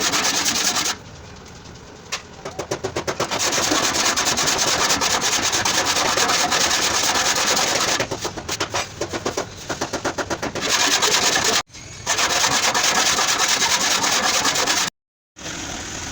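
Sanding on a car's fender bodywork: a steady, loud rasping with stretches of quick, even strokes, cutting out briefly twice.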